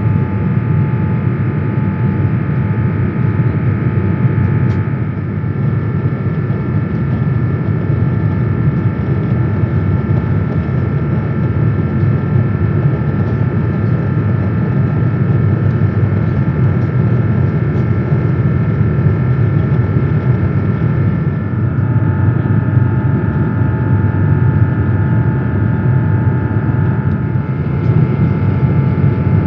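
Steady in-flight cabin noise of an Airbus A350-1000 heard from inside the cabin: a deep, even rush of airflow and engine noise with several steady higher tones over it.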